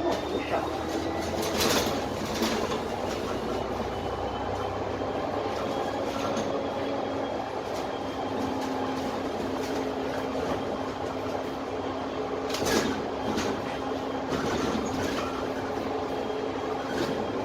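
Interior sound of a Dennis Trident 12 m double-decker bus on the move: its Cummins ISMe diesel and Voith automatic gearbox running with a steady whine under road noise. Brief rattles of the body about 2 seconds in and again about 13 seconds in.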